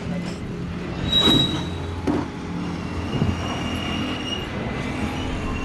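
Iron-ore freight train rolling, heard from inside an open hopper car: a steady low rumble with clanks, and a short high wheel squeal about a second in. A longer, lower squeal follows from about three seconds.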